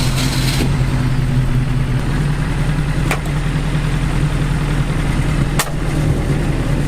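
BAC Mono's four-cylinder engine running steadily at low revs as the car moves off slowly. Two sharp clicks come about three and five and a half seconds in.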